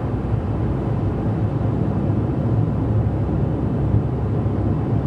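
Steady low rumble of road and engine noise from a car driving on the highway, heard from inside the car.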